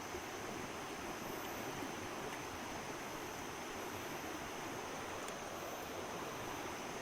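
Steady outdoor rainforest ambience: an even rushing noise like running water, with a steady high tone above it.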